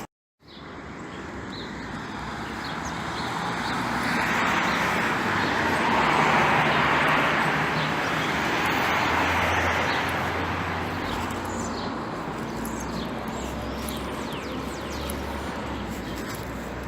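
A vehicle passing on a wet road: a hiss that swells to a peak about six to nine seconds in and then fades, over a low engine hum and a steady background hiss. Faint bird chirps are heard near the end.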